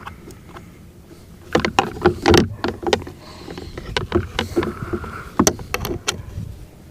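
Irregular sharp clicks and knocks of hand tools on metal, from a small bolt being fitted and tightened with a 10 mm wrench on a boat's remote control. A quicker run of clicks comes near the end.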